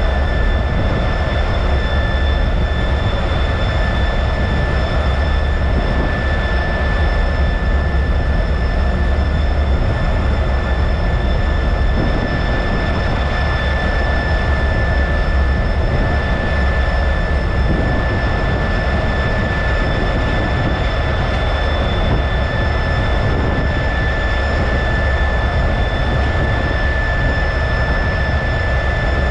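T-33 jet trainer heard from inside the cockpit: a steady, loud jet engine and airflow noise with a deep rumble and a constant high whine on top.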